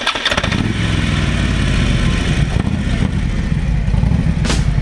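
Harley-Davidson V-twin motorcycle engine running just after being started, with fast, even low firing pulses. There is a sharp hit near the end.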